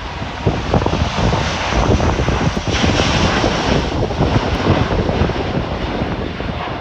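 Airbus A330-900neo's Rolls-Royce Trent 7000 jet engines at takeoff thrust, a loud steady rush of engine noise that swells to its peak about three seconds in as the airliner passes, with wind buffeting the microphone underneath.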